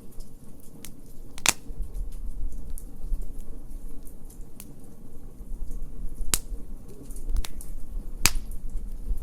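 Wood fire crackling in a fire pit: a steady low rumble under a scatter of small crackles, with three sharp, loud pops spread through.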